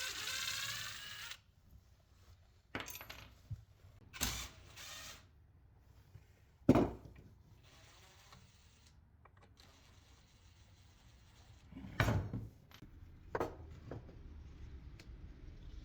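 Scrap pallet-wood pieces being handled on a workbench: a short scraping rattle at the start, then a few separate wooden knocks, the loudest about seven seconds in.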